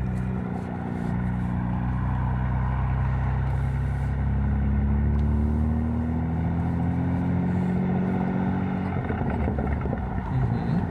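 Catless BMW M4's twin-turbo straight-six running at low revs as the car rolls slowly, its pitch rising gently a few seconds in and then easing back.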